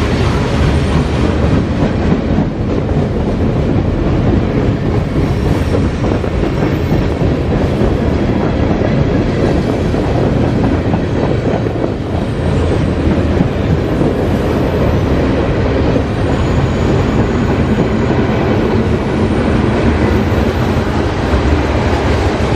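Freight train cars rolling past at about 25 mph: a steady, loud rumble of steel wheels on the rails with some clickety-clack.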